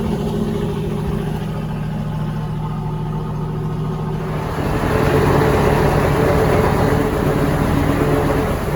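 Dump truck's V8 diesel idling with a steady low exhaust note; about halfway through the engine sound grows louder and rougher and stays up.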